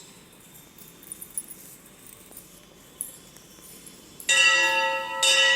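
A temple bell is struck twice near the end, about a second apart, ringing on with several clear overlapping tones. Before that there is only faint background with a few light clicks.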